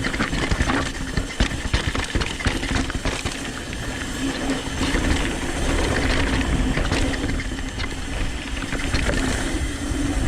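Downhill mountain bike running fast over a rough, technical trail: tyres crunching over dirt and rocks, with the frame and chain rattling and knocking at every bump, under a steady rush of wind.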